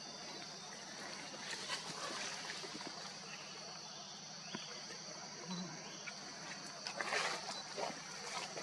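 Steady high-pitched drone of forest insects, with a few brief noisy bursts, the loudest about seven seconds in.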